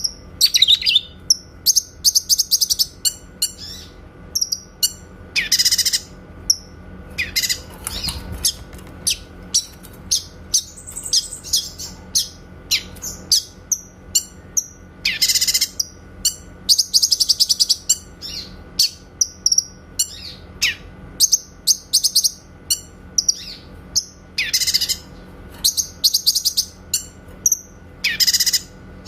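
Cucak kinoy singing continuously: rapid short, sharp, clear high notes (the "shots" bird keepers prize) with repeated buzzy trills lasting up to about a second. A faint steady hum lies underneath.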